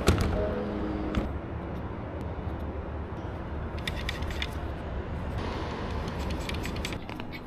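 Kia Morning engine idling with a steady low hum, a brief tone in the first second and scattered ticking clicks: the abnormal idle noise put down to a faulty alternator overrunning decoupler (OAD) pulley.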